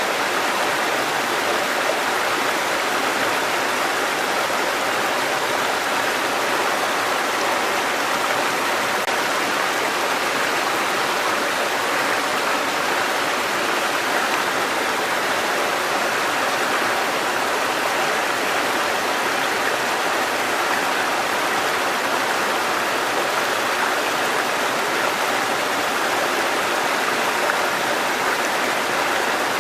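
Water cascading over rocks in a mountain stream: a steady, even rush.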